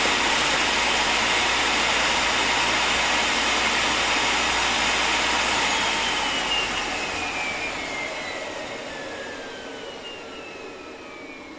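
Automatic folding machine running with a steady whirring noise, then winding down about halfway through: its motor whine falls in pitch and the sound fades as the machine coasts down.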